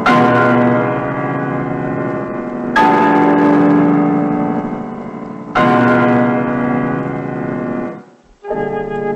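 A large bell tolls three times, about three seconds apart, each stroke ringing on and slowly fading. The ringing cuts off near the end, and a flute melody begins.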